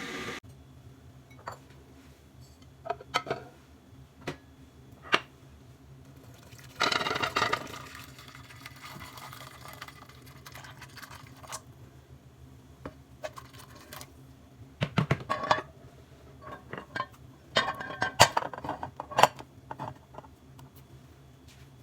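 Kitchen dishes and utensils clinking and knocking now and then, with a brief rush of noise about seven seconds in.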